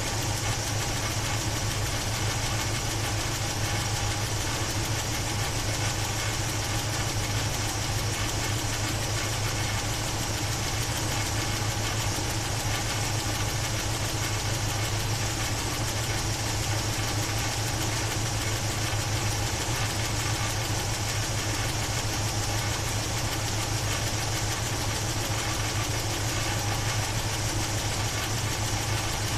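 Chevy 350 V8 idling steadily. The owner is chasing a noise from its top end that he takes for a bad valve rather than lifter tick.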